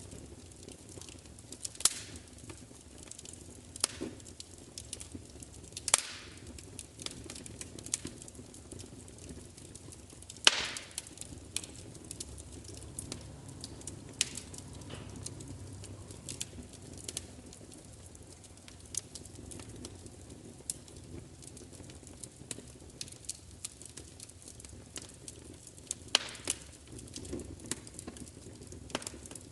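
Fire crackling: irregular sharp pops and snaps, the loudest about 10 seconds in, over a low steady background.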